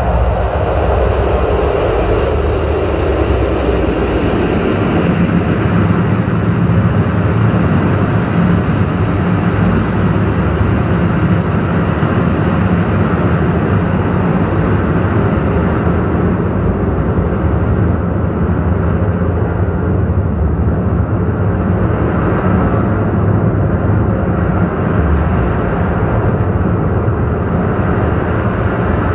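Electronic drone music from interconnected analog synthesizers: a dense, rumbling, noise-like wash over a steady low drone. A sweep falls in pitch over the first few seconds, and the high end gradually fades from about halfway on.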